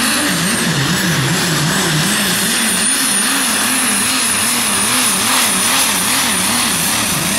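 Super stock diesel pulling truck running at full throttle under heavy load. Its engine note wavers up and down about twice a second, and a steady high turbo whistle sits above it.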